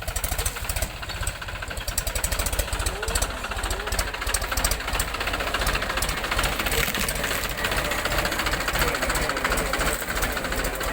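Diesel tractor engine running with a fast, even knocking beat.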